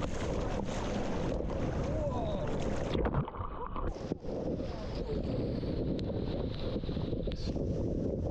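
Surf and water churning with wind buffeting an action camera's microphone, recorded in the waves. The sound goes muffled for about a second, three seconds in.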